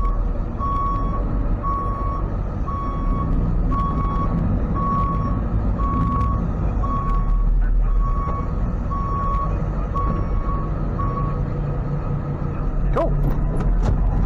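Tow truck's reversing alarm beeping evenly, a little under two beeps a second, over its idling engine while the truck backs up. The beeps stop about 11 seconds in, and a few short squeaks follow near the end.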